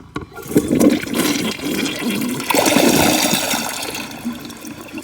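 2017 WaterRidge dual-flush toilet flushing, heard close up: a brief click at the start, then water rushes into the bowl about half a second in, surges again a couple of seconds later and tapers off as the bowl drains.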